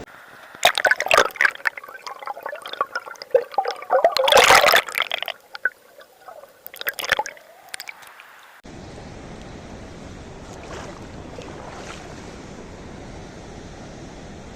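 Water splashing, dripping and gurgling close up in a run of irregular splashes, loudest around four to five seconds in. About eight and a half seconds in this gives way abruptly to the steady rush of the river.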